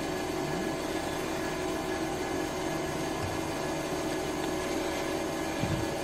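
Steady mechanical hum with a few fixed tones over an even hiss, and a short low sound near the end.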